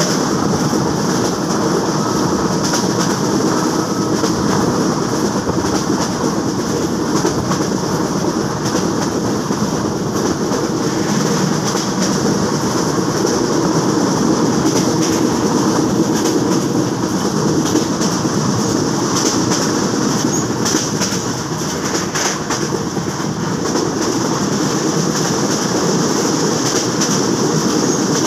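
Train running at about 92 km/h, heard from inside a passenger coach by the window: a steady, loud rush of wheels on rail, with scattered clicks.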